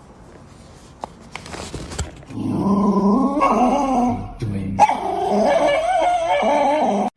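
A dog vocalizing in two long, wavering calls: a lower one starting a couple of seconds in, then a higher one.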